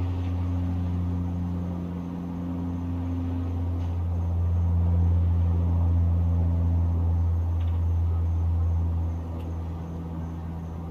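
Low, steady rumble of a vehicle engine in the distance, growing louder about halfway through and easing off near the end. Faint crickets chirp in an even pulse underneath.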